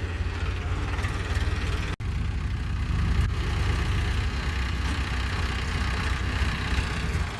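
Diesel tractor engine running steadily with a deep low rumble. The sound cuts out for an instant about two seconds in.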